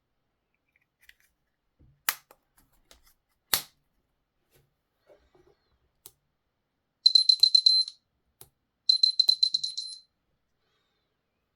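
Two sharp clicks, then two bursts of rapid, high-pitched electronic beeping, each about a second long, with a short pause between them.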